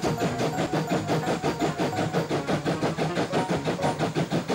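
A railway engine chugging steadily and evenly at about six beats a second.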